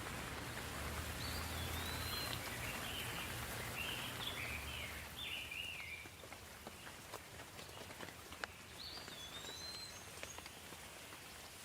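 Soft rain falling steadily with scattered drips, and a songbird calling over it: a whistled note about a second in and again near the end, with a run of chirps in between. A low rumble under the rain stops about halfway.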